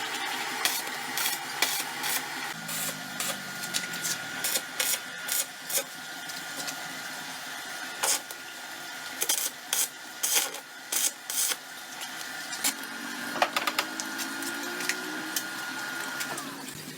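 Small motor running with a steady high whine that stops with a short downward drop near the end, over many sharp clicks and taps.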